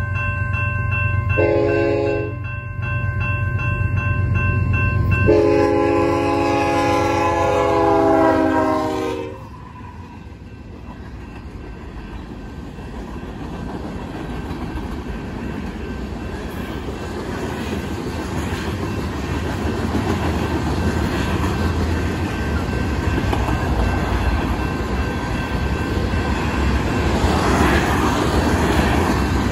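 Union Pacific freight locomotive sounding its horn for the grade crossing: a short blast about a second and a half in, then a long blast that ends about nine seconds in, over the diesel's low rumble. Then the freight cars roll past with steady wheel-on-rail clatter that slowly grows louder.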